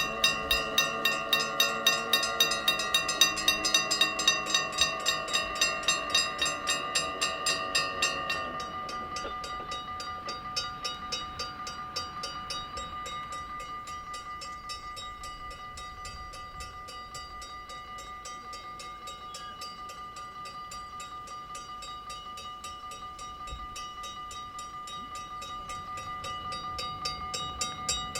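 Dutch level-crossing bell ringing in rapid, even strokes, with a train passing over the crossing during the first eight seconds or so; the train's steady tonal drone fades out about eight seconds in, and the bell rings on.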